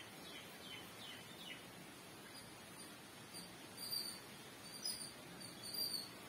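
Small birds chirping: a few quick falling calls in the first second and a half, then short, sharp high chirps about four, five and six seconds in, over a faint steady background hiss.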